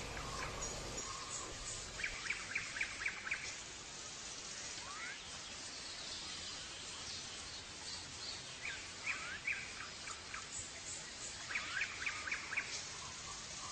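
Birds chirping over a steady background hiss: runs of quick, short chirps come every few seconds, with a few rising whistled notes between them.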